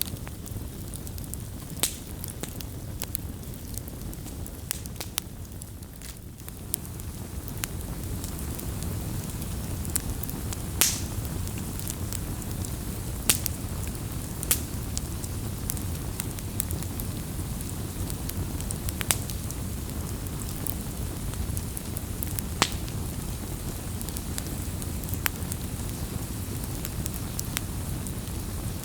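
Campfire crackling: irregular sharp pops and snaps, a few louder than the rest, over a steady low rumble of the burning fire.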